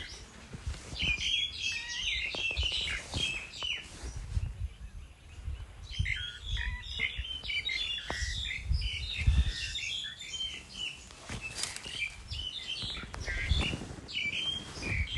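Small birds chirping: many quick, high chirps in overlapping bursts, with a lull about four to six seconds in. Low thuds and rumbling run underneath.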